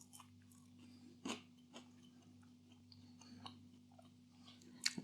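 Faint chewing of an oven-baked Birds Eye crispy chip, with a few soft crunches, one a little louder about a second in. The chip's coating is only slightly crisp. A low steady hum runs underneath.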